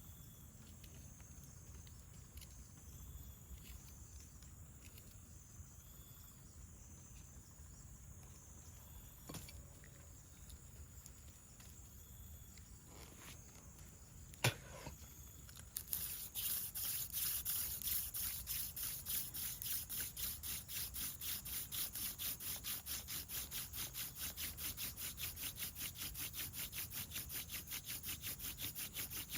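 Hand-drill friction fire: a wooden spindle spun back and forth between the palms, grinding in the notch of a wooden fireboard. It starts about halfway through as a fast, even rubbing rhythm of several strokes a second, over a steady high chirring of insects.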